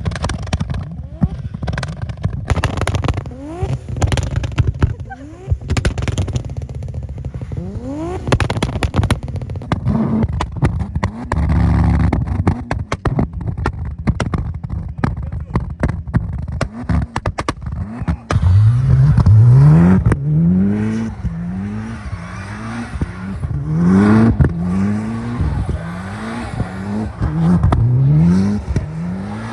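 Tuned turbocharged car engine being driven hard, with frequent sharp antilag pops and crackles. In the second half the revs climb and drop again and again, about once a second, as the throttle is worked.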